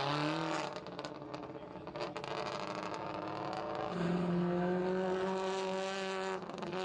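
Rally car engine running hard. From about four seconds in its note holds steady at high revs for a couple of seconds, then cuts off near the end.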